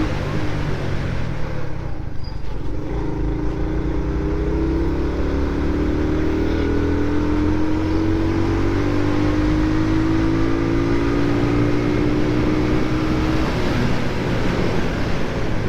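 Motorcycle engine running under way, its note climbing slowly as the bike gains speed, then falling away near the end, over a steady low rumble.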